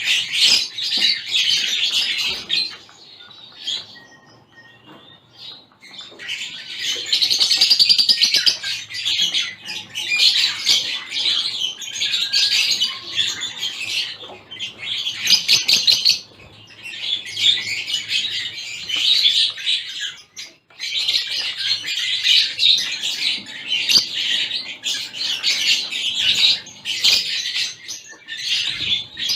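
A flock of small finches, mixed species including zebra finches, chirping and chattering over one another in a mini aviary. The calls are rapid and high, with a brief lull a few seconds in before the chatter picks up again.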